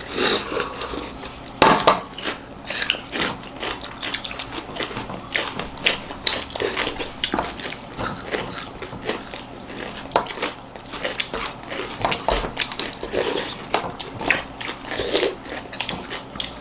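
People eating: frequent irregular clinks of dishes and utensils against plates, with biting, chewing and crunching.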